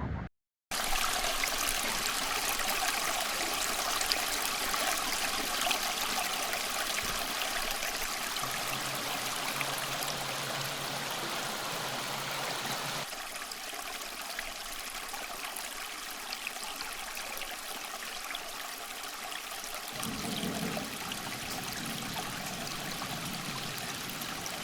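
Mountain stream rushing steadily, an even wash of flowing water. It drops out for a moment at the very start, then turns a little quieter about halfway through.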